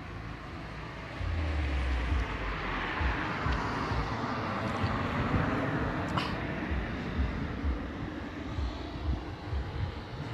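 Storm wind: a broad rushing that swells about a second in, holds for several seconds and slowly eases, with gusts buffeting the microphone.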